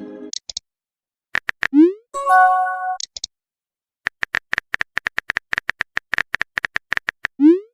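Phone-texting sound effects: runs of quick, even keyboard-tap clicks, each run ending in a short rising swoosh like a message being sent. About two seconds in there is a brief ringing chime like an incoming-message notification. A long run of taps fills the second half and ends in another swoosh near the end.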